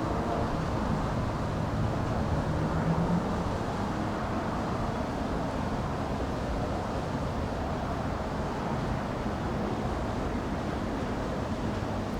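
Jet airliner's engines rumbling on a landing approach, a little louder in the first few seconds and then easing off, under steady wind noise on the microphone.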